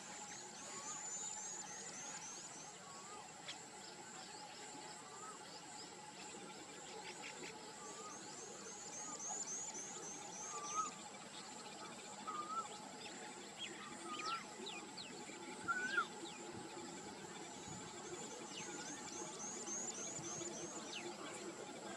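Wild outdoor ambience: insects holding a steady high drone with runs of rapid high chirps, and a bird giving short rising whistled notes, a few louder ones in the second half.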